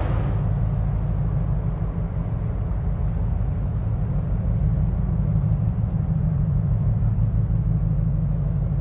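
Steady low rumble, its energy almost all in the deep bass, with no sudden events.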